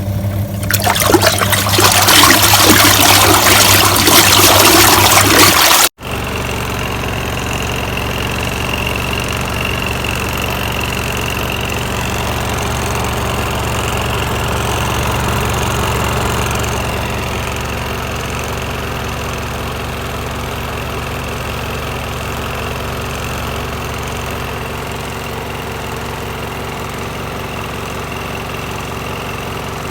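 THANKO small twin-tub washing machine running. For about the first six seconds a loud rushing noise sits over a steady motor hum; then, after a sudden break, a steady motor hum with a faint high whine runs on.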